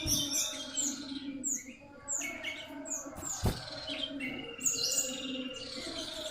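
Common iora (sirtu/cipow) chirping: a run of short, high notes that fall in pitch, repeating about twice a second, with a single click about halfway through.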